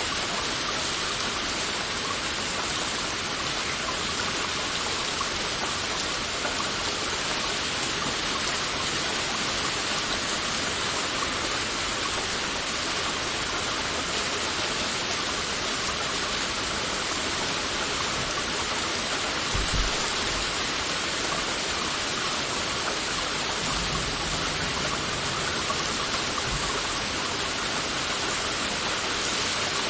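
Heavy rain falling steadily, a dense even hiss of drops. A brief low thump comes about two-thirds of the way through, followed a few seconds later by a faint low rumble.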